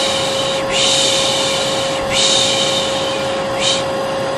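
A vacuum cleaner runs with a steady hum and whoosh. Over it a voice repeats long 'shhh' shushing sounds, each about a second or more long: the 'piş piş' soothing sound for calming a baby. The shushes come back to back three times, with one short 'shh' near the end.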